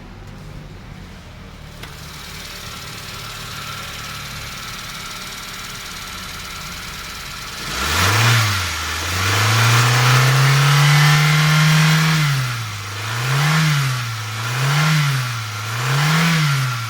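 Toyota 5E 1.5-litre inline-four engine in a Toyota Raum idling steadily, then revved: a quick blip about 8 s in, a rev held for a few seconds, then three short blips of the throttle near the end, as in a test of a used engine at idle and medium revs.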